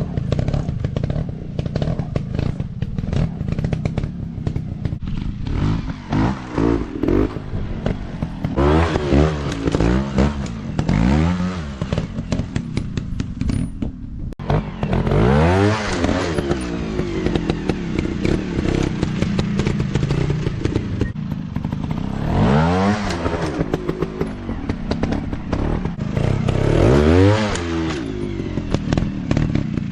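Dirt bike engines, Kawasaki KLX four-stroke trail bikes, revving hard and falling back over and over as riders throttle on and off around a motocross track. The pitch climbs and drops in sweeps every couple of seconds, with the loudest pushes about a third, halfway and near the end.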